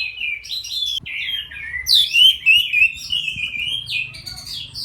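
Young orange-headed thrush singing a fast, continuous, varied song of rapid whistled notes, loudest about two seconds in, sung even though the bird is skittish when approached.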